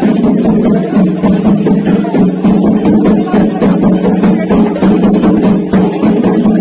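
Music of fast, dense drumming, loud and steady throughout.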